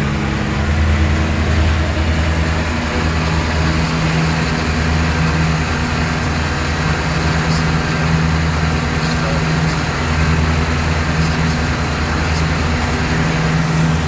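John Deere tractor engine running steadily at an even speed, a low hum without change in pitch.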